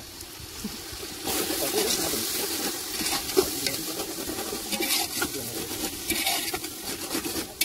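Chicken pieces frying in hot oil in a large metal pot over a wood fire, sizzling, while a long-handled metal ladle stirs and scrapes through them against the pot. The sizzle and scraping grow louder about a second in as the stirring starts.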